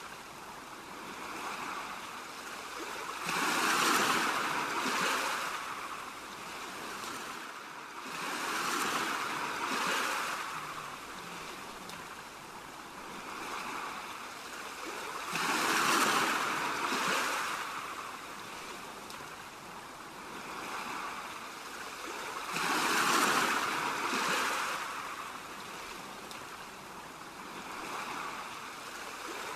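Ocean surf: waves breaking and washing in, swelling and falling away four times, five to seven seconds apart.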